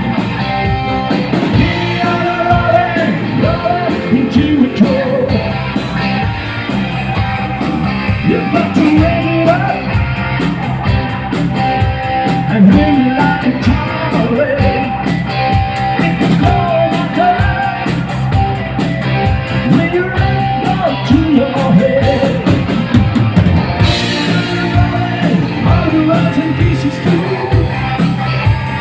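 Rock band playing live: electric guitar and drum kit with a lead voice over them, a steady beat throughout.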